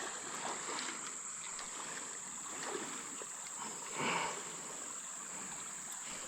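Quiet creek-side ambience: a steady high-pitched insect drone over faint flowing water, with small clicks of handling and a brief rustling swell about four seconds in.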